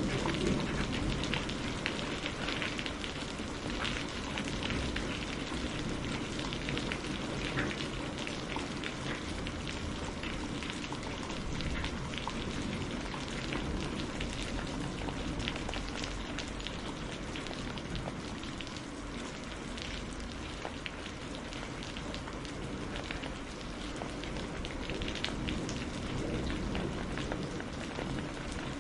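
Steady rain falling and pattering on a surface, with many individual drops ticking through the steady hiss.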